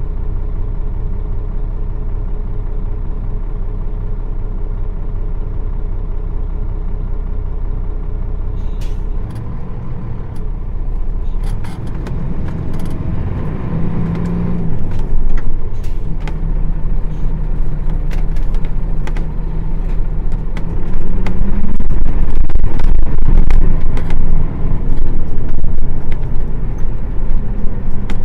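Nissan Diesel PF6 diesel engine of a city bus, heard from inside the cabin: idling steadily for about nine seconds, then pulling away, the engine note climbing under load and rising again about twenty seconds in. Clicks and rattles of the bus body come through over the engine once it moves.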